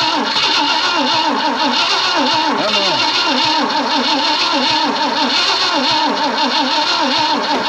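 Starter cranking the 1965 Ford Thunderbird's V8 over and over in a steady rhythmic churn, without the engine catching; it has sat unrun since 1986 and is close to firing.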